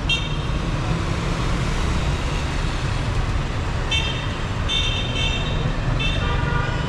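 Vehicle horns honking in short toots over the steady rumble of dense city traffic: one at the start, then a run of toots in the last three seconds, ending with two horns of different pitch sounding together.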